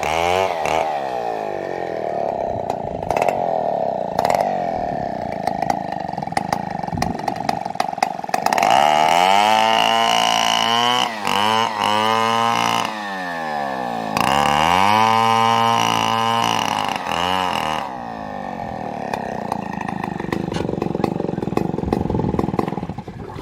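Two-stroke chainsaw running and cutting a coconut log, revving up high and dropping back toward idle several times. The engine note falls away right at the end.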